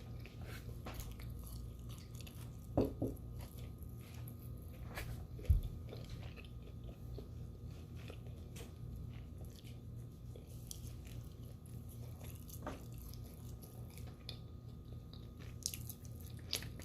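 Close-up eating sounds: chewing and biting with small scattered mouth clicks, and a low thud about five and a half seconds in.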